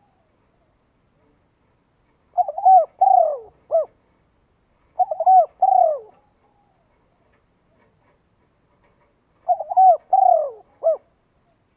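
A bird calling in three short phrases, each a quick run of rising-and-falling notes, with silence between them.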